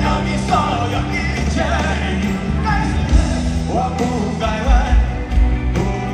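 Live rock band with a male lead vocalist singing a melodic line over sustained guitar chords, bass and drums, loud and continuous.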